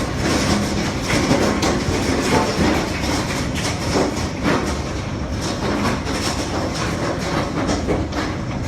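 Hail pelting hard surfaces: a dense, unbroken clatter of countless stone impacts over a loud hiss of falling ice and rain.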